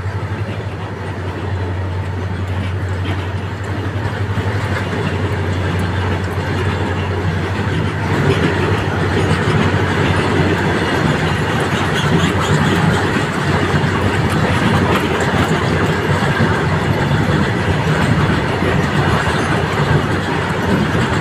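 Freight train's wagons rolling past at close range, a steady noise of wheels on the rails that grows a little louder about eight seconds in.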